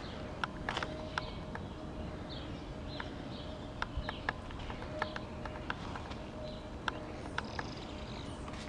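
Birds chirping faintly, with scattered sharp clicks and ticks at irregular intervals.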